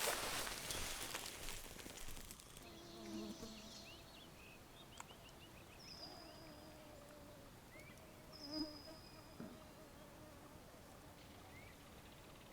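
A flying insect buzzing faintly near the microphone with a wavering hum, alongside short high bird chirps and two thin falling whistles. The first couple of seconds are a rustle of movement.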